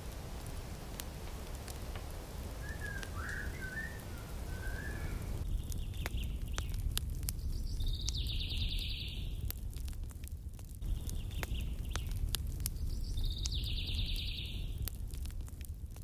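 Birds chirping over a steady low rumble, with scattered clicks. About a third of the way in, higher calls take over, a short call followed by a longer one, heard twice.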